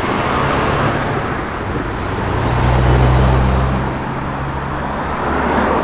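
A car driving slowly past with a steady low engine hum and tyre noise, swelling to its loudest about halfway through, then easing off.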